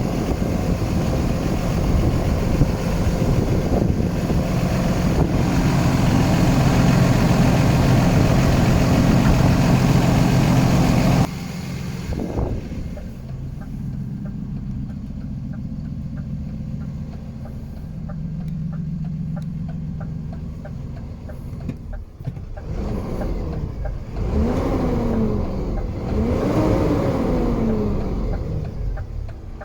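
DAF LF truck's diesel engine, running loud and steady for about eleven seconds before it cuts off suddenly. It then idles more quietly and is revved twice near the end, the pitch rising and falling each time.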